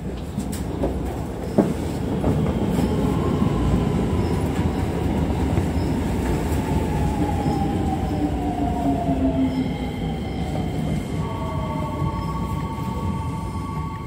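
Electric commuter train running slowly through a station, a steady rumble of wheels on rail. A motor whine falls in pitch over several seconds as the train slows, and steady high squealing tones set in about ten seconds in.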